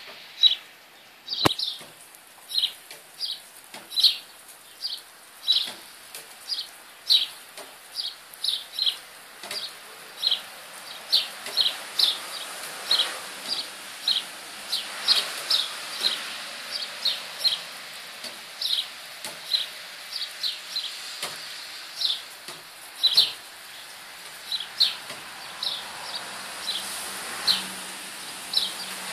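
A small bird calling over and over: short, high chirps, about one or two a second.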